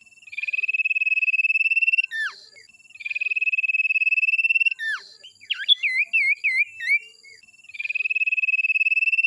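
Songbird song used for bird tutoring (masteran): three long, fast trills, the first two each ending in a sharp downward-sliding note, with a burst of quick, varied chirps in the middle.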